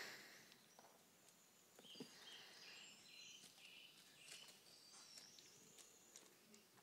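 Faint outdoor quiet with small birds chirping: a quick run of short high notes about two seconds in, and thinner, higher calls later on.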